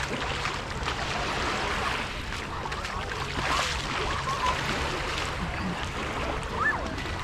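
Beach ambience: a steady wash of sea and surf noise with distant voices and calls of beachgoers.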